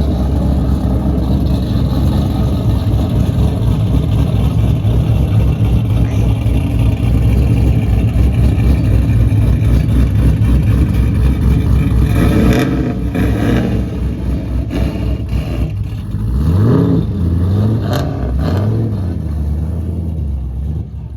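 A car engine running loud and steady, then revved several times in the second half, each rev rising and falling in pitch.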